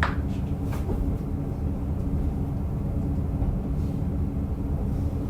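Diesel railcar running on the Rumoi Main Line, heard from inside the car: a steady low rumble of engine and wheels on rail. A brief high tone falls in pitch right at the start.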